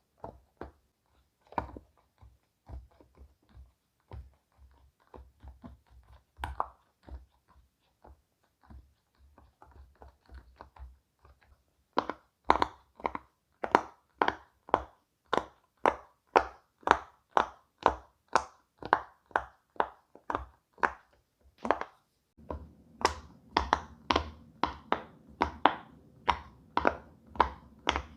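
Silicone pop-it fidget toy bubbles being pressed one after another, each giving a short soft pop. The pops are quieter and uneven for the first half, then louder and regular at about two to three a second. A low hum joins underneath in the last few seconds.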